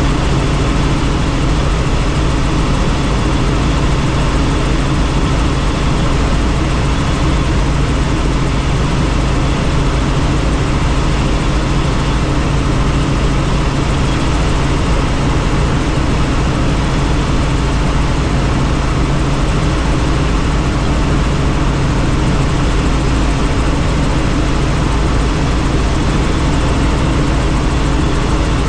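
Helicopter in flight: steady, loud engine and rotor drone with rushing air noise, unchanging throughout.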